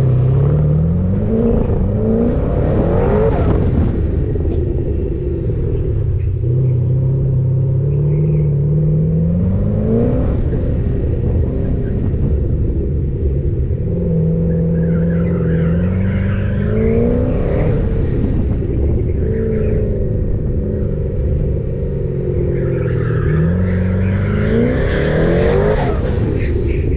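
Twin-turbo LSX427 V8 of a 2013 Camaro SS running an autocross course, accelerating hard in short bursts and lifting off between them. Its engine note climbs and drops back several times.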